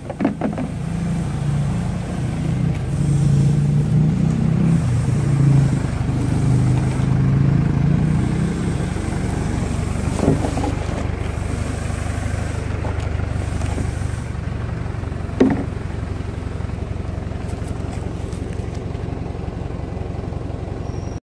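A 4x4's engine running steadily, its pitch wavering for the first several seconds. A few sharp knocks sound over it: one about ten seconds in and a louder one about fifteen seconds in.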